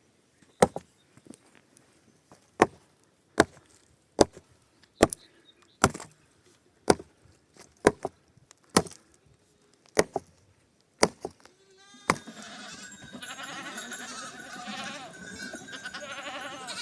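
A tool striking wood in steady, even blows, about one a second. About twelve seconds in, this gives way to a flock of sheep and goats bleating.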